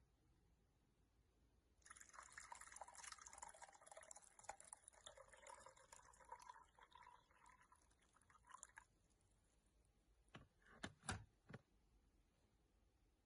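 Faint trickling and dripping of water, with a few soft clicks around ten to eleven seconds in.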